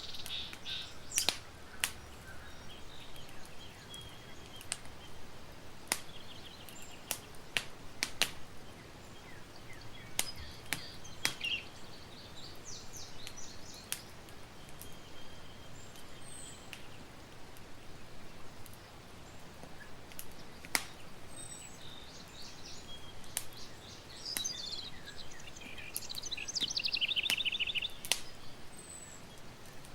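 Campfire crackling with scattered sharp pops, while wild birds chirp and sing in the background, with a rapid trill near the end.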